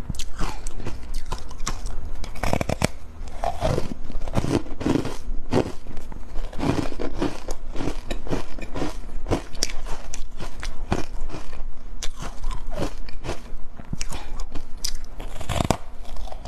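A person biting and chewing crunchy matcha powder, with sharp, irregular crunches throughout.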